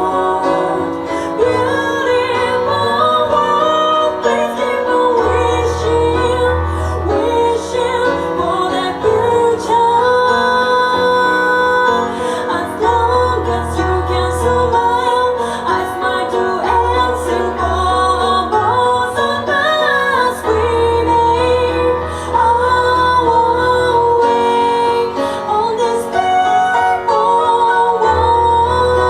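Live music: a woman singing over a band with a sustained bass line and keyboard.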